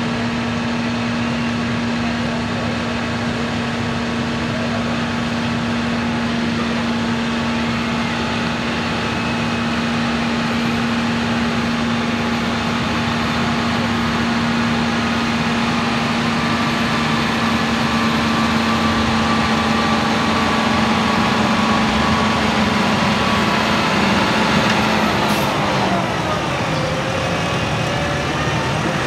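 John Deere farm tractor's diesel engine running hard under load as it pulls a weight-transfer sled: a loud, steady engine drone that falls in pitch as the engine slows near the end.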